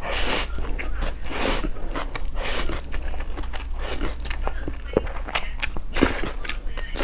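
Close-miked eating of spicy noodle soup: noisy slurps about every second or so, with chewing and small wet clicks between them.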